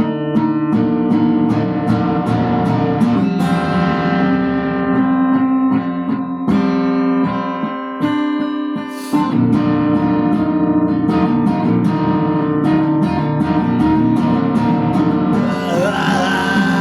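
Acoustic guitar playing picked notes in a steady rhythm, with a short break about eight seconds in.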